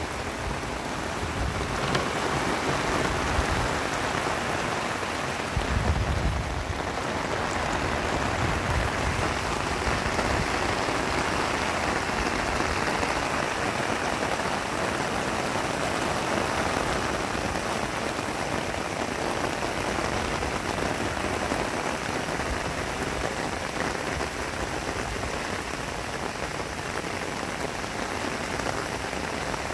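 Heavy rain falling steadily in a continuous hiss. A brief low rumble comes about six seconds in.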